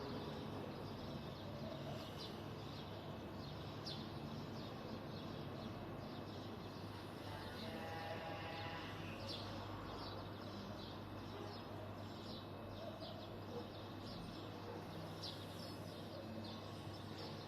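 Sparrows chirping in short, scattered calls over a steady low hum of street background noise. About halfway through, a drawn-out voice-like call rises briefly above the chirping.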